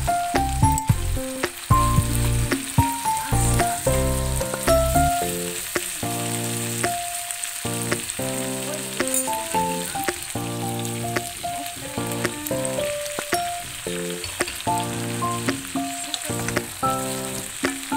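Vegetables sizzling in a hot wok as they are stirred with a spatula, under louder background instrumental music with a melody of short notes and a bass line.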